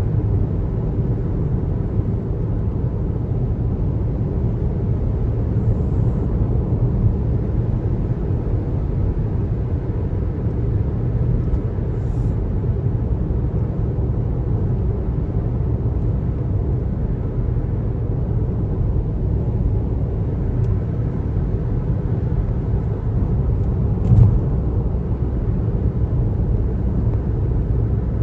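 Steady low road noise of a car driving at speed, tyres and engine in an even rumble. A brief knock stands out about 24 seconds in.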